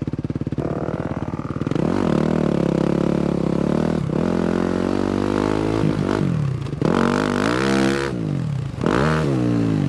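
A 250cc four-stroke single-cylinder dirt bike engine idling, then revving up and pulling away, its pitch rising and dropping several times as the throttle opens and closes.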